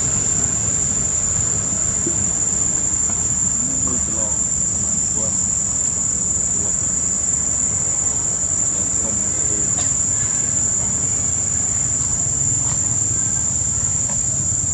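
Steady, high-pitched drone of insects, one unbroken shrill tone, with a low rumble beneath it.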